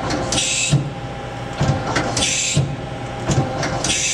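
Mori Seiki SL-3A CNC lathe's 12-station turret indexing station to station: each index brings a short hiss and clunks, three times about every two seconds, over the machine's steady hum.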